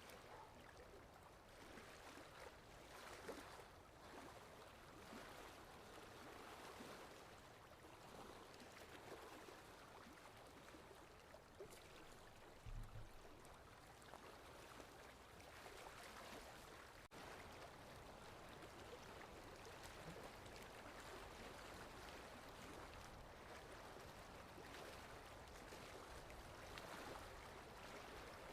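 Faint sea waves washing and receding, a soft continuous hiss of water that swells and eases every few seconds. A brief soft low bump near the middle.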